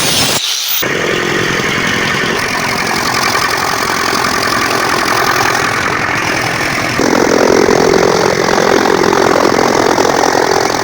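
Straw and grass chopping machine (chaff cutter) running steadily, with a dense mechanical clatter that grows heavier about seven seconds in.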